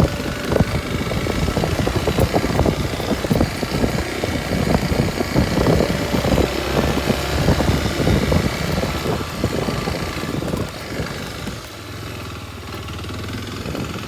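Kawasaki Super Sherpa's single-cylinder four-stroke engine running on a ride, a dense, rough sound; it drops to a quieter, steadier low note about eleven seconds in.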